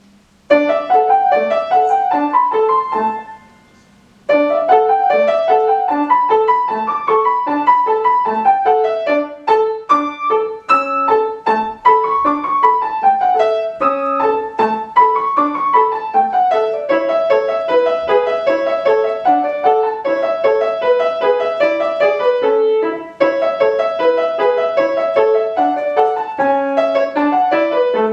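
Piano played by a young pupil: the notes begin about half a second in, break off after about three seconds, then start again a second later and run on in quick rising and falling figures.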